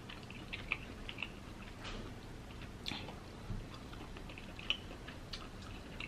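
A person chewing king crab meat close to the microphone, faint, with scattered soft wet clicks and smacks.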